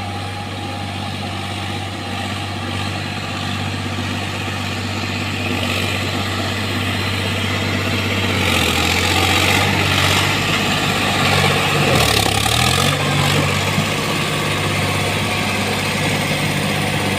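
Sonalika diesel tractor engine running steadily and slowly getting louder. About twelve seconds in its note dips briefly and then recovers, with rougher added noise around that stretch.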